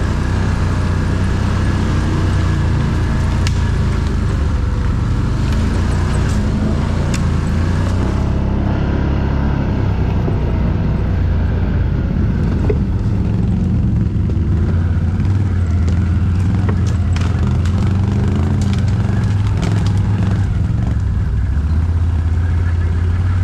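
ATV engine running steadily and loudly, with scattered sharp clicks and knocks over it.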